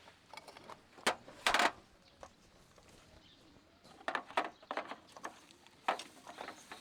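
A few scattered short clicks and knocks: one about a second in, followed by a brief scraping rustle, then a quick cluster around four seconds in and another knock near six seconds.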